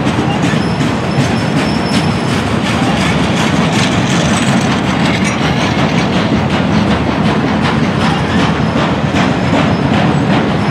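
Rail train of flatcars loaded with long welded rail rolling past: a steady rumble of steel wheels on the track with a quick run of clicks, and a faint high squeal coming and going in the first half.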